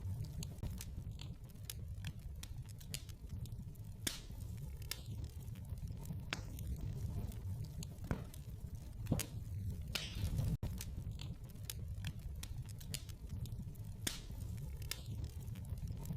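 Wood fire crackling in a fireplace: irregular sharp pops and snaps over a steady low rumble of the flames, with a brief hiss about ten seconds in.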